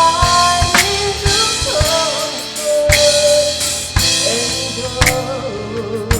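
Band music with a full drum kit: regular drum and cymbal hits under a gliding melody line.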